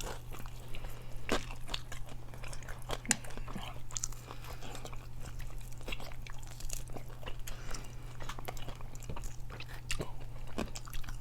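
Crunching and chewing of a hard-fried chicken wing: many irregular crisp crunches as the crust and meat are bitten and chewed.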